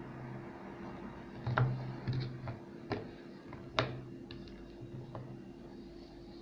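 A Milka whole-almond chocolate bar being handled: a few sharp snaps and clicks with short dull knocks, then lighter ticks.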